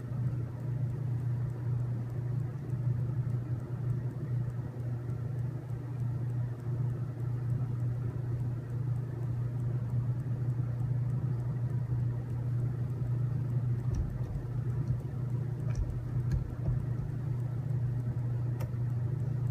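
Steady low hum, like a fan or appliance running, with a few faint clicks and light knocks in the last few seconds.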